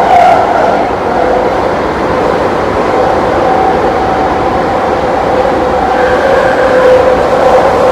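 London commuter train running at speed, a loud steady rumble with a held whine over it.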